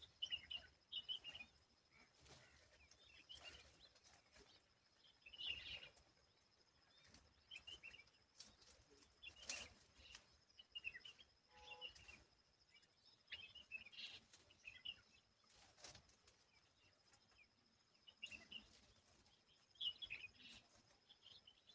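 Common babblers giving short, faint chirps in scattered little clusters, with a thin steady high tone underneath and a few soft knocks.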